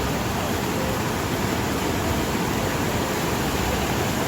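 Steady rush of water from a rain-swollen mountain stream.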